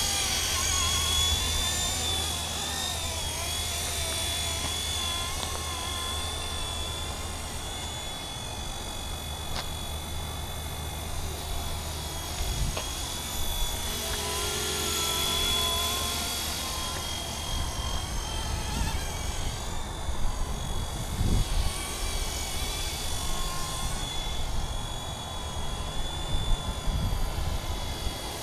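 Radio-controlled MD 500 scale model helicopter flying: a steady high whine that wavers slightly in pitch over a low rotor thrum. Uneven low rumbles and bumps come in during the second half.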